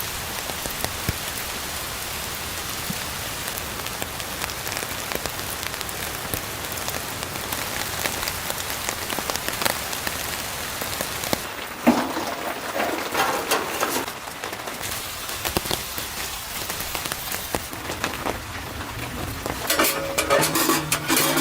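Steady rain falling, an even hiss dotted with many small drop ticks. There is a sharp knock about halfway through and some clattering near the end.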